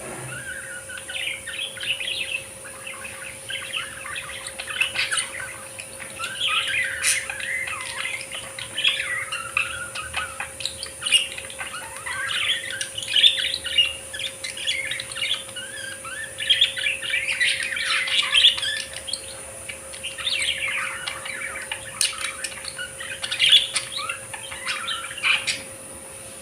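Budgerigars chattering: bouts of rapid, overlapping chirps and warbles with short lulls between them.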